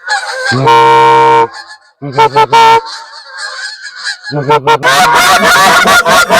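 Goose calls blown close by: one long honk about half a second in, a few short clucks around two seconds, then a fast, dense run of honks and clucks from about four seconds on, calling to incoming geese.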